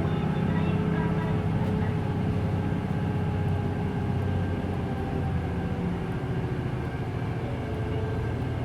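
Hino Blue Ribbon City Hybrid bus's diesel engine running steadily, heard from inside the passenger cabin.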